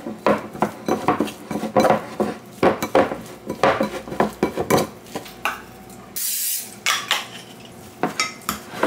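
A metal utensil stirring and mashing a thick, dry oat and protein-powder mix in a ceramic bowl, scraping and clinking against the bowl in quick repeated strokes. A longer scraping rush comes about six seconds in, then lighter taps and scrapes near the end as the mix is pressed into a container with a fork.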